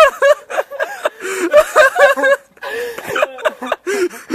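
People laughing hard in repeated bursts of chuckling and snickering, with a short pause about two and a half seconds in.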